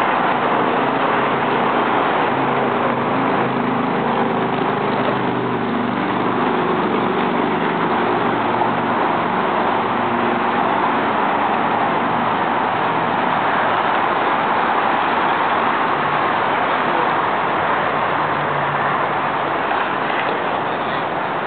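Car engines running amid steady traffic noise, with engine hum shifting in pitch as cars move.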